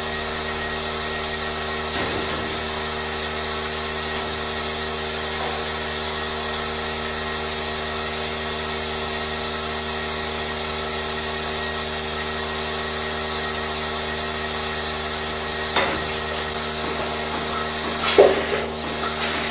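Steady hum of running machinery, with a few short knocks and a cluster of louder knocks and rubbing sounds near the end.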